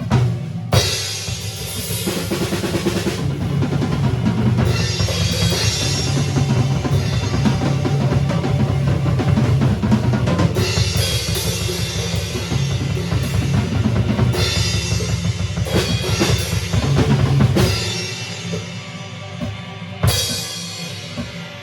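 Band playing live with the drum kit to the fore: bass drum, snare, rolls and crash cymbals over a strong low end. About 18 seconds in the low end drops out, and a cymbal crash comes about two seconds later.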